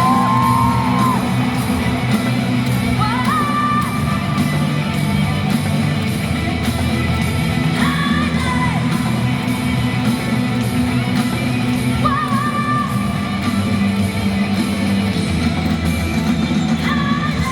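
Live rock band playing amplified, with sung vocals over electric guitar, bass and drums in a dense, steady mix.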